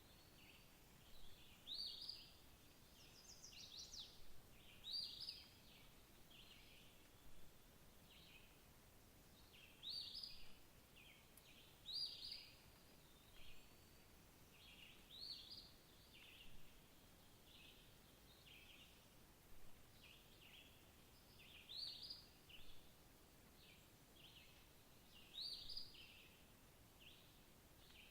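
Faint bird calls: short high chirps repeated steadily, with a stronger rising note every two to three seconds, over a quiet background hiss.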